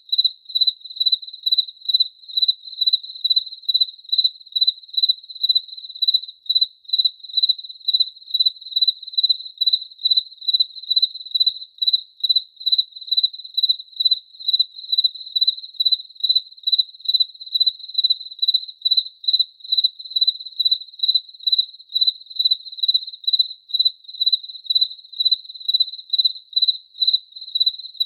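A cricket chirping steadily: one high, clear note pulsed evenly about three times a second without a break.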